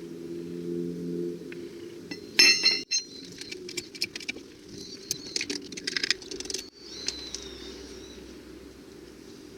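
Metal hand tools clinking against each other and against wheel nuts: one loud ringing clink about two seconds in, then a run of lighter metal clicks and taps.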